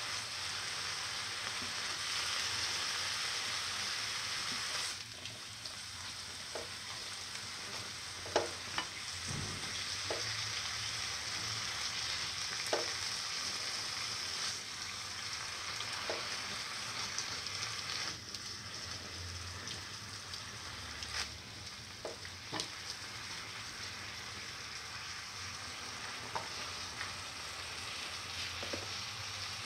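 Minced chicken and fenugreek leaves sizzling steadily in oil in a pan while a spatula stirs them, with short scrapes of the spatula against the pan now and then. The sizzle drops a little about five seconds in.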